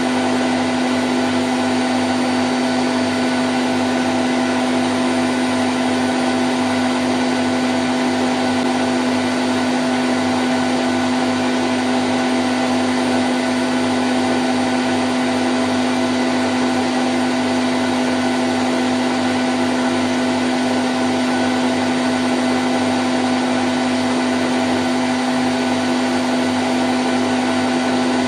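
Candy Grand O' F106 washing machine in its spin cycle at 1000 rpm, running steadily. It makes an even whirring rush with a strong hum held on one low pitch and fainter whines above it.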